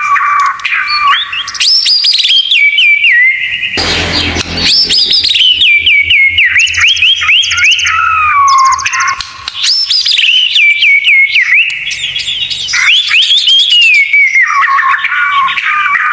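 Songbird song from a tutor recording for training white-rumped shamas: a dense run of loud, quick whistled notes, many sliding downward, with high rapid trills above. The texture changes abruptly about four seconds in and again near twelve seconds, as if separate recordings were joined.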